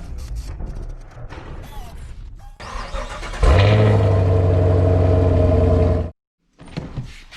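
Chevrolet Camaro LT1 V8 running at a steady, loud fast idle on a cold start. The drone starts abruptly a few seconds in and cuts off suddenly. Before it there are quieter noise and clicks.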